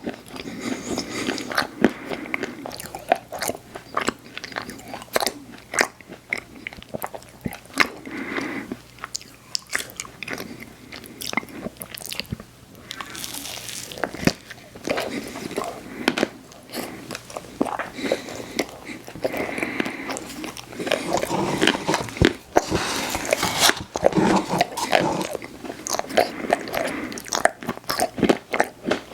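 Close-miked eating sounds: a person biting and chewing ice cream and cookie desserts, with wet smacking and many sharp clicks throughout.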